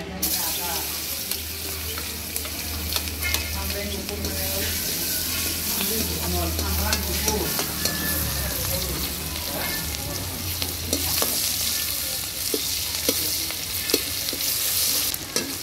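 Sliced onions sizzling in hot oil in an iron kadai, the sizzle starting sharply as they are tipped in, with the metal skimmer clicking and scraping against the pan as they are stirred.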